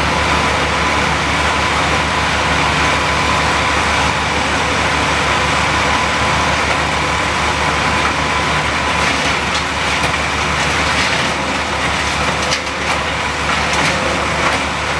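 Tree crew's wood chipper running steadily under load, its engine loud and even, with a few sharp cracks past the middle.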